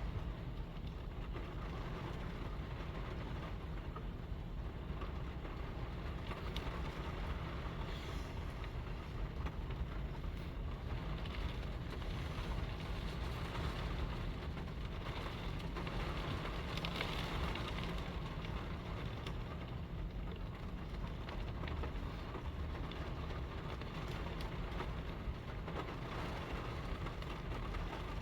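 Strong wind blowing in gusts, with a low rumble of wind buffeting the microphone; a stronger gust swells and fades about two-thirds of the way through.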